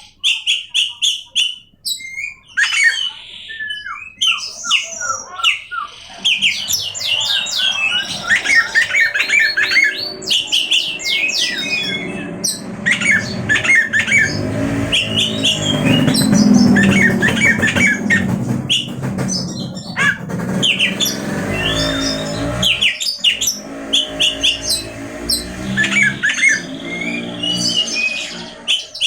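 Oriental magpie-robin (kacer) singing, a rapid, varied string of whistles, chatters and glides mixed with harsh squawking notes. Through the middle a harsh, buzzy sound runs underneath the song.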